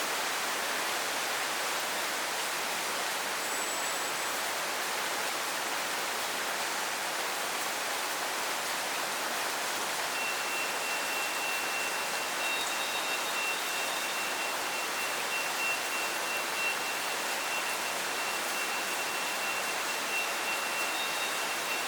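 Steady rain hiss. About halfway through, a thin, steady high-pitched tone joins it and keeps going.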